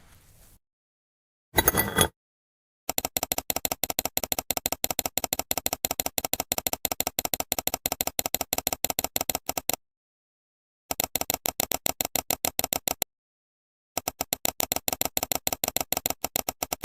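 Rapid, evenly repeated clicking taps, several a second, in runs of a few seconds, each run stopping dead, after a short loud burst about a second and a half in.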